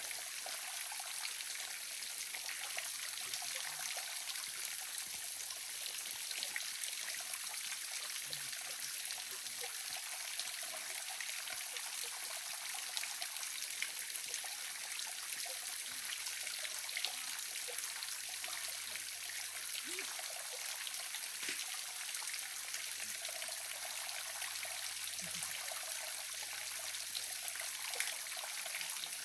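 Small waterfall splashing and trickling steadily, with water hitting water in a hiss and scattered small splashes and drips.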